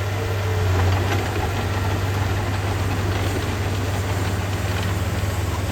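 Diesel engine of a heavy earthmoving machine running steadily with a deep, even drone.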